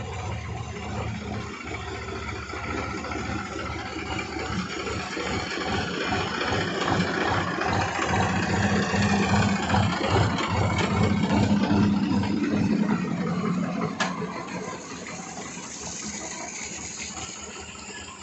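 HMT tractor's diesel engine running with a steady low chugging beat. It grows louder through the middle, then eases back after a sharp click about fourteen seconds in.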